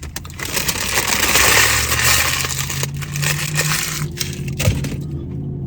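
Food wrapper crinkling and rustling as it is handled and unwrapped, loudest in the first few seconds and easing off near the end.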